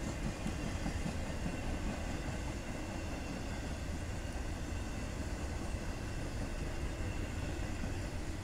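Double-stack container cars of a CSX intermodal freight train rolling steadily past, with a continuous noise of steel wheels on rail.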